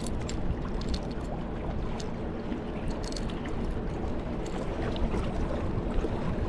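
Steady wind rumbling on the microphone with water lapping and splashing against a kayak's hull, small sharp ticks and drips scattered throughout.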